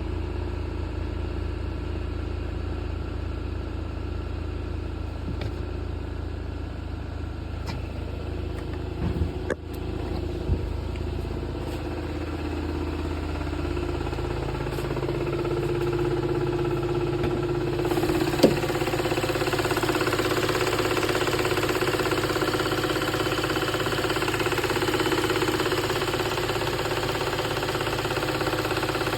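Volkswagen Mk7 Golf GTI's 2.0-litre turbocharged four-cylinder idling steadily with the air conditioning on, with a ticking that the owner hears only when the A/C is running. About halfway through the engine's low note shifts and a steady hiss grows, with a few sharp clicks around the middle.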